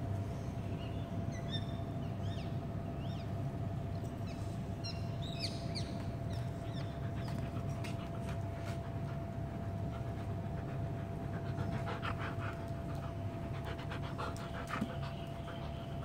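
Small birds chirping in quick, short calls, busiest in the first several seconds, with quick clicky chirps again later, over a steady low hum and a faint constant whine.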